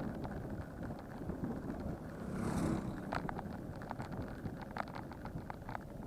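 Bicycle on the move: steady wind and road rumble on the microphone, with a scatter of short rattling clicks, and a brief whoosh swelling up about halfway through.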